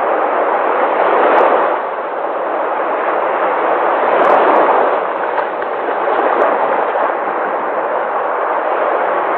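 Sea waves washing onto the shore: a continuous rush of surf that swells louder and eases off again every few seconds.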